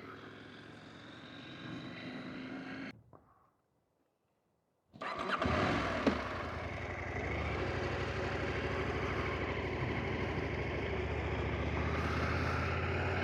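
Adventure motorcycle engine running quietly, then cut off by about two seconds of dead silence. After the silence the motorcycle comes back louder and runs steadily while under way, with a single click near the start of that stretch.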